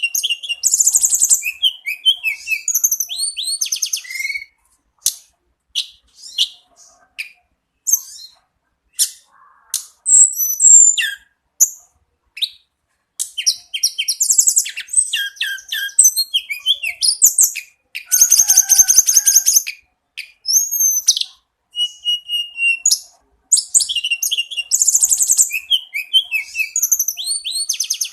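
Tledekan gunung songbird singing a long, varied, high-pitched song: quick whistled phrases, chirps and fast trills with short pauses, including a long rapid rattling trill about two-thirds of the way through.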